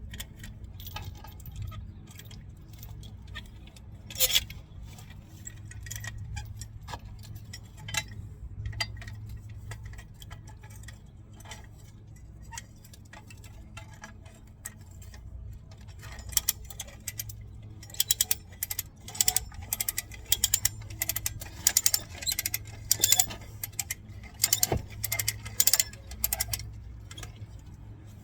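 Hand-ratcheting come-along being cranked, its pawl clicking in runs of sharp clicks that come thicker and faster in the second half, as it draws a chain tight to pull a concrete fence-post footer out of the ground.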